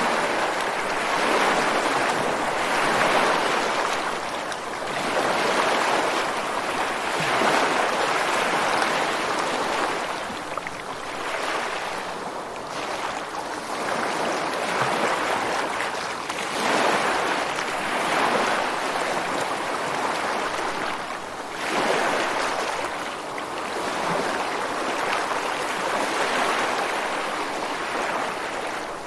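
Ocean surf breaking on a beach: a continuous rushing wash of water that swells and ebbs every few seconds as each wave comes in.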